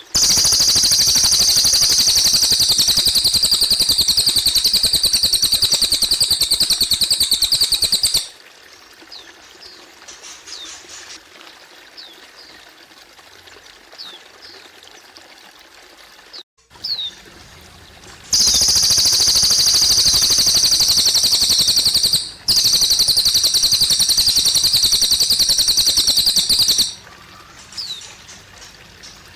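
A cililin songbird singing long, very fast, high trills of about four to eight seconds each, three times. Between the trills it gives short, high, falling chirps over the trickle of water.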